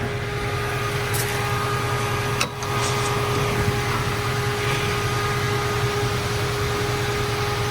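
350 small-block Chevrolet V8 idling steadily with a constant hum, dipping briefly about two and a half seconds in.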